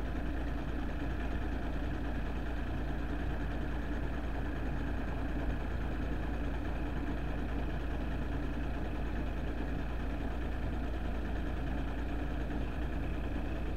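A vehicle engine idling steadily, with a constant low rumble.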